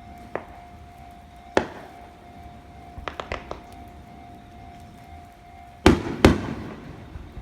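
Aerial fireworks bursting: a bang about a second and a half in, a quick run of four or five crackling pops around three seconds, and two loud bangs about half a second apart near the end.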